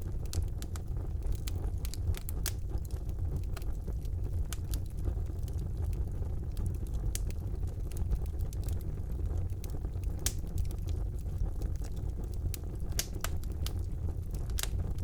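Wood fire burning in a fireplace: a steady low rumble of the flames with frequent irregular crackles and pops from the burning logs, a few sharper pops about ten and thirteen seconds in.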